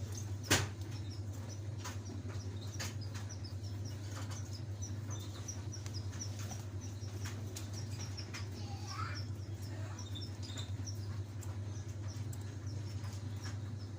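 Canary calling in a long run of short, high chirps, about three a second, over a steady low hum. A few sharp clicks sound among the chirps, the loudest about half a second in.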